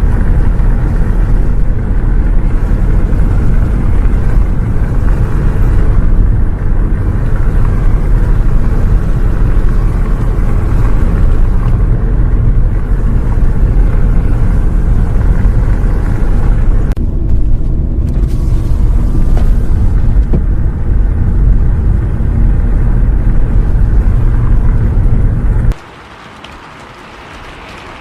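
Loud, steady low rumble of a bus driving, heard from inside the cabin, with rain. Near the end the rumble cuts off abruptly, leaving a much quieter hiss.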